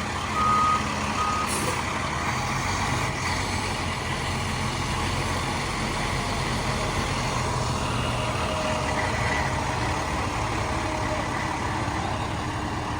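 Heavy truck's diesel engine running steadily, with its reversing beeper sounding for about the first second and a half. There is a short hiss about one and a half seconds in.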